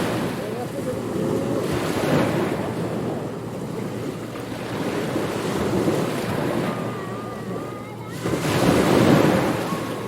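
Ocean surf on a beach: waves breaking and washing up the shore in repeated swells, with wind over it. The biggest wave breaks about eight seconds in.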